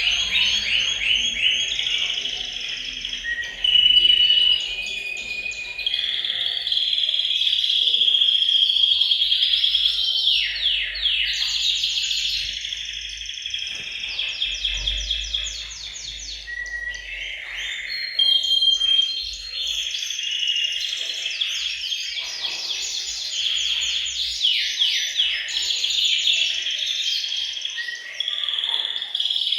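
Several male canaries singing at once: fast trills of rapidly repeated notes mixed with short held whistled tones, overlapping without a break.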